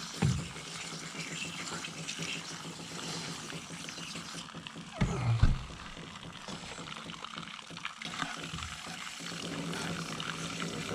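Water spraying from a hose onto a dirty AC coil, rinsing it clean: a steady hiss of spray, with two low thumps, the louder about five seconds in.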